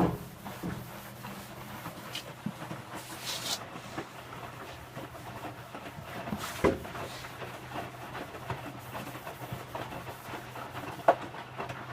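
Electrolux W455H commercial washing machine running a wash, its drum turning the load: a steady low hum with irregular clicks and knocks, a brief hiss about three seconds in, and two sharper knocks, one near the middle and one near the end.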